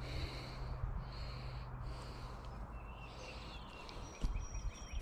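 Outdoor creekside ambience: a steady low rumble, with a bird chirping faintly in the second half and a soft low thump near the end.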